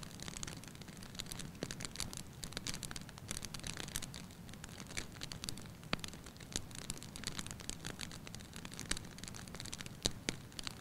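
Wood fire burning in a fireplace: steady hiss with frequent irregular crackles and sharp pops.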